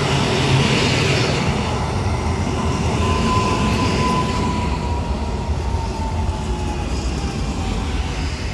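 Passenger train pulling into the station, a steady rumble of wheels on rail. About three seconds in a thin whine begins and slowly falls in pitch.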